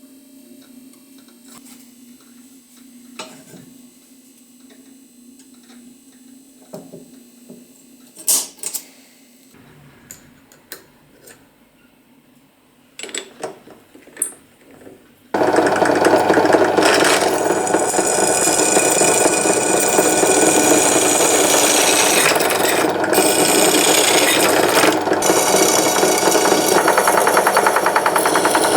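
Light metal clinks and taps over a low hum, then about fifteen seconds in a loud power tool starts suddenly and runs steadily on the steel.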